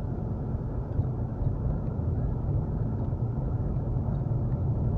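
Steady low rumble of a car on the move, heard from inside the cabin: road and tyre noise with engine hum, unchanging throughout.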